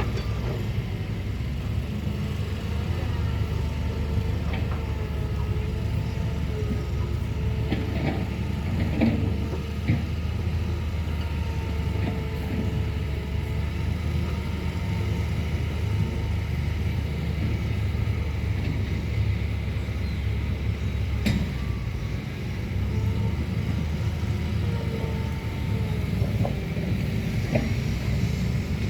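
Excavator's diesel engine running steadily under working load, with a wavering whine rising and falling above it and a few sharp clanks from the digging gear.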